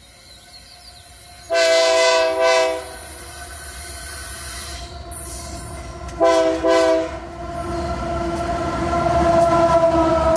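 Locomotive air horn of an empty iron-ore train sounding two blasts, then two more short blasts a few seconds later. After that the train's rumble builds steadily, with a steady whine over it, as it comes closer.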